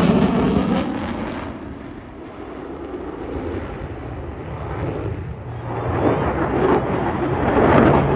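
Jet aircraft engine noise rumbling past, fading about two seconds in and then building again toward the end.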